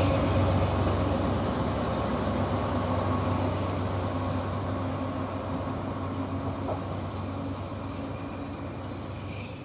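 A train running away from the listener, its steady low drone and rail noise fading gradually.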